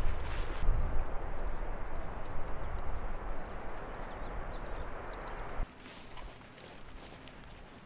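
A small bird giving a run of short, high chirps, about one and a half a second, over a steady outdoor rushing noise. Both cut off suddenly about five and a half seconds in, leaving a much quieter background.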